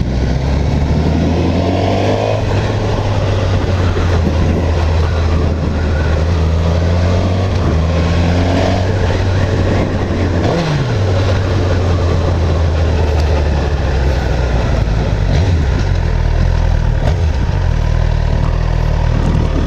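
Sport motorcycle engine running under way, its pitch rising as it revs up twice and dropping briefly about halfway through, with steady wind and road noise.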